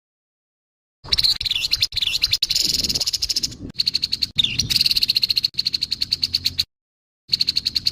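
Grey-headed babbler giving its harsh call: a fast, rasping rattle of many ticks a second, in two bursts, starting about a second in and broken by a short gap near the end.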